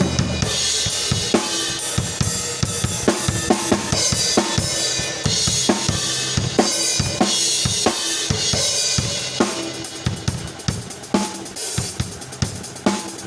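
Isolated drum-kit track: kick, snare and cymbals playing a steady beat under a bright cymbal wash. About nine and a half seconds in, the cymbal wash drops away and the part turns lighter and a little quieter, with fast hi-hat ticks over the kick and snare.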